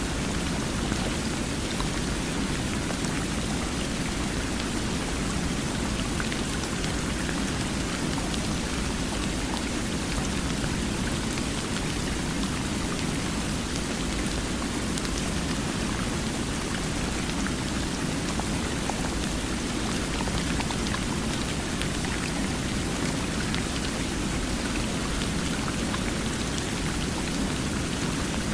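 Flowing water rushing steadily and evenly, with fine splashes and drips scattered through it.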